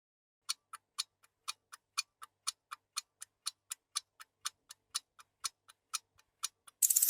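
Steady mechanical ticking like a clock, about four ticks a second, starting after a brief silence. Near the end a loud, dense rattle starts.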